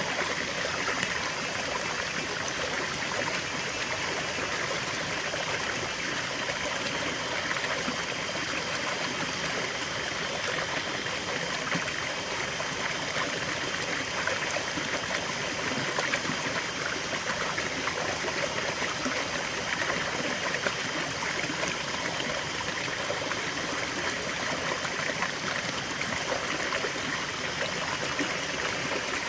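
Small stream of water trickling and babbling over stones, a steady, even rush with fine gurgles.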